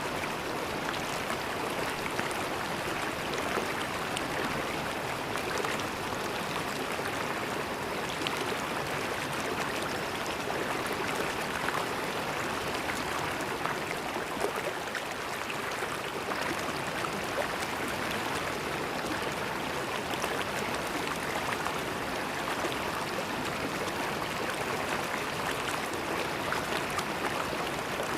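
River water flowing and babbling over stones, a steady even rush with fine splashes.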